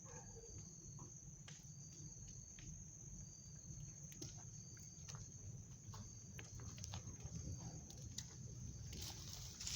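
Backyard bonfire burning, with scattered sharp crackles and pops over a low rumble, against a steady high-pitched trill of crickets.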